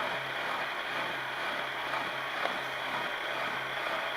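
Milling machine running with an HSS cutter taking a slow, light cut in a steel lathe tool holder: a steady motor hum under an even hiss and a faint high tone.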